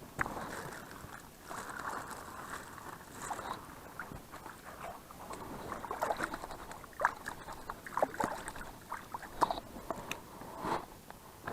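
Close water sloshing and splashing with irregular small knocks and clicks of handling.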